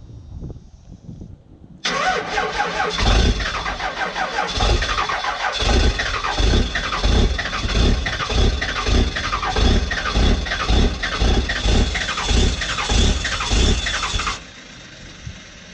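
1997 Dodge Ram's 12-valve Cummins inline-six diesel being cranked by the starter on a hard cold start in freezing weather: a long, even crank with about two compression beats a second over a steady starter whine, which stops abruptly near the end.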